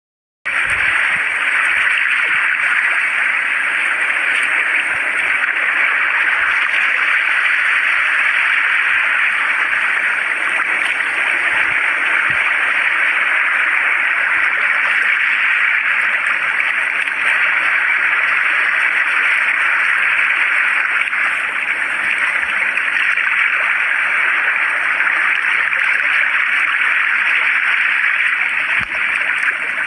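Sea water rushing and splashing over rocks in a steady, unbroken rush, with a faint steady high hiss above it.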